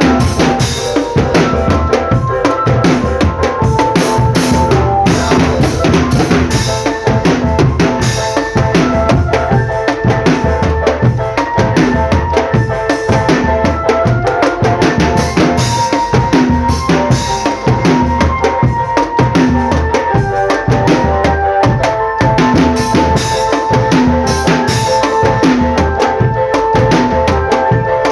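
Marching drum band playing: snare and bass drums in a fast, steady beat with a melody carried over it.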